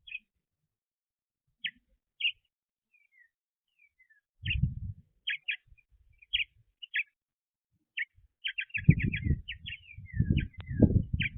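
Small birds chirping: short sharp chirps and a few thin down-slurred calls, coming faster near the end. A brief low rumble comes about four and a half seconds in, and a steadier low rumbling noise joins for the last couple of seconds.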